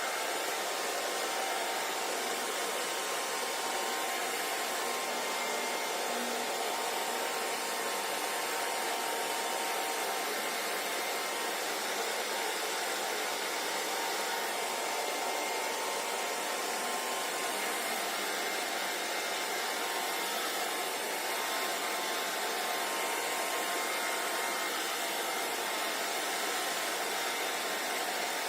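Hair dryer blowing steadily: an even rush of air with a faint steady motor whine under it, unchanging throughout.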